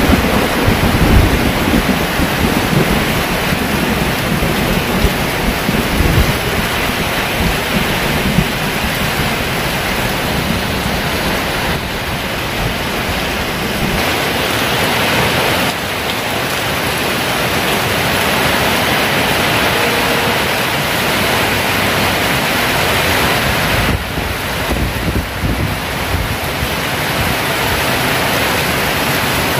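Heavy downpour of rain, a dense steady hiss, with low rumbling thunder through the first several seconds that then fades.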